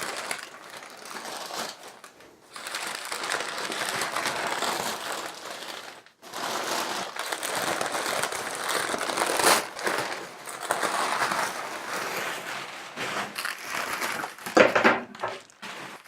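Newspaper wrapping being pulled off and crumpled: continuous rustling and crinkling of paper with a couple of short pauses and a few louder crackles near the end.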